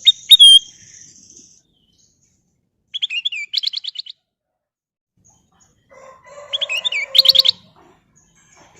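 A kutilang emas, a bulbul, singing three short phrases of quick whistled notes. The first comes right at the start, the second about three seconds in, and the last and loudest near the end.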